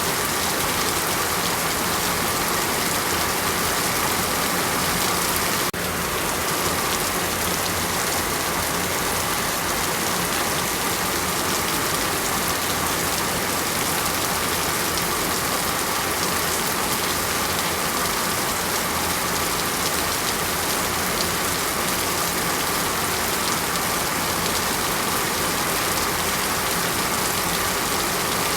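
Heavy rain falling steadily, a dense, even hiss of drops with no breaks. About six seconds in the level drops slightly for a moment.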